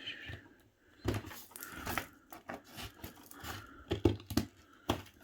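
Hands working the plastic parts and packaging of a new dehumidifier: a string of irregular clicks and knocks with some rustling.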